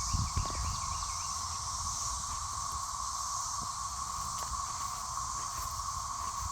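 Dense chorus of periodical cicadas, a steady, unbroken drone with no pauses.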